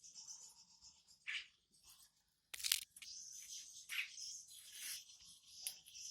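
Pet prinias giving repeated short, high chirps, with one sharp click a little before the middle.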